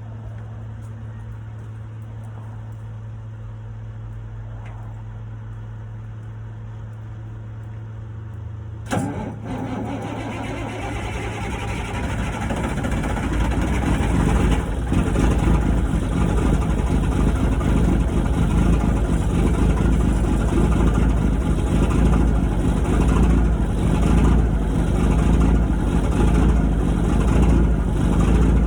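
Freightliner FLD 120 semi truck's diesel engine cold-starting: after a steady low hum, it catches suddenly about nine seconds in and runs, growing louder over the next few seconds into a loud, steady pulsing run.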